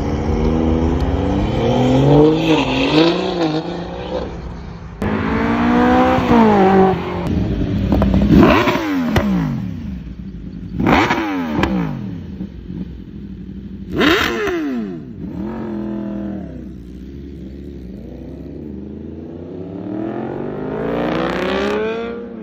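Car engine revving: uneven revs at first, then three sharp rev blips a few seconds apart, each rising fast and falling away, then a slow climb in revs near the end.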